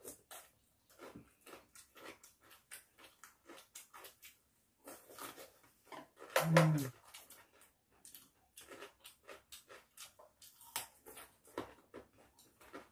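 Raw carrot sticks being bitten and chewed, with crisp crunches coming irregularly a few times a second, along with other chewing and mouth sounds. A short voiced hum comes about six and a half seconds in.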